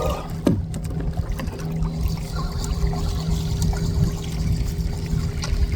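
Water trickling and lapping around a kayak, over a steady low hum and a few light clicks.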